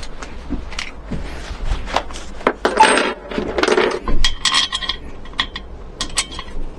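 Irregular small metallic clinks and rattles, like tools or hardware being handled.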